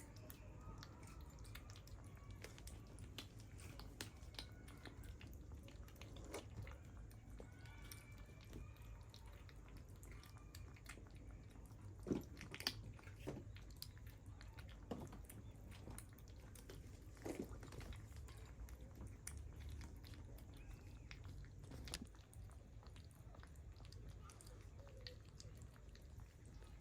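Kittens moving about a quiet room: faint rustling with scattered soft taps and thumps. The loudest two come close together about twelve seconds in.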